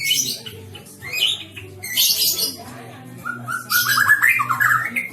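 White-rumped shama (murai batu) singing: sharp high notes, then from about three seconds in a rapid trill that climbs in pitch.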